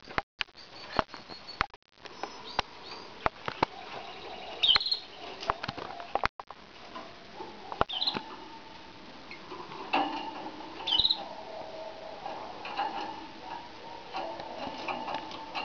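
Pet canaries, a frill canary and a common canary, moving about their cage: a scatter of sharp clicks and taps, with a few short high chirps.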